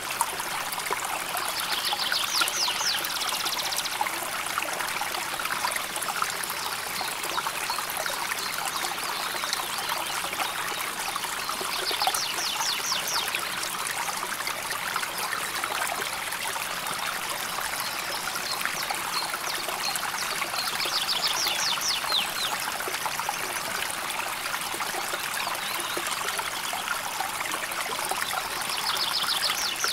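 A calmly flowing river stream, trickling and gurgling steadily. A short, high, rapid trill of about a second cuts in four times, roughly every nine seconds.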